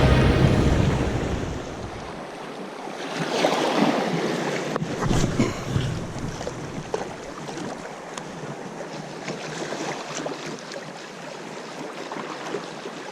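Small waves washing on the shore, with wind buffeting the microphone and a few scattered light clicks. A heavy low wind rumble in the first couple of seconds drops away, leaving the surf hiss.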